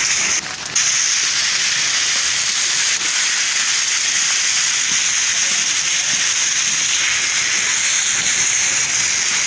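Heavy rain falling in a steady, loud hiss, briefly dipping in level about half a second in.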